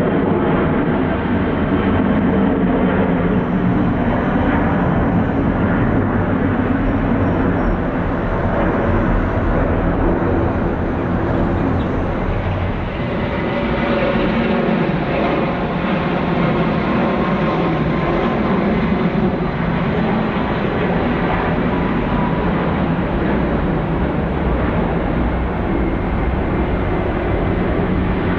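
Jet engines of a large widebody airliner running loud and steady, a continuous rumble with a faint whine, dipping briefly about halfway through.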